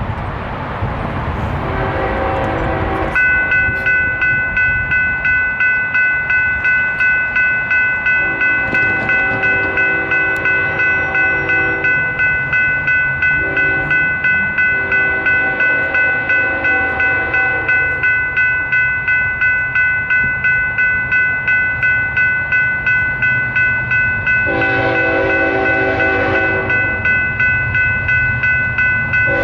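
A train's multi-chime air horn sounding several blasts of a few seconds each over a passing train's rumble. About three seconds in, a grade-crossing warning bell starts and rings steadily at about two strokes a second.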